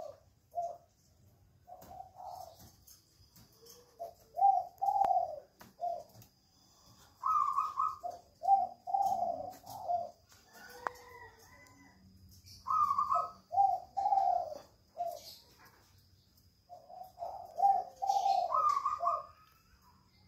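Spotted dove (tekukur) singing: a mellow cooing song of several notes, repeated in about four bouts with pauses between.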